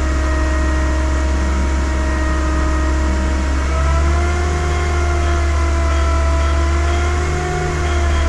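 Car engine running at raised revs with a steady whine from the front of the engine, its pitch lifting slightly about halfway through. The whine is the sign of a failing bearing in the air-conditioning compressor's front pulley.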